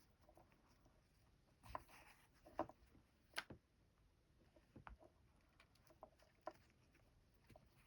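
Hand embroidery: faint, scattered taps and rustles of a needle and thread being worked through fabric, with a sharper tick about three and a half seconds in.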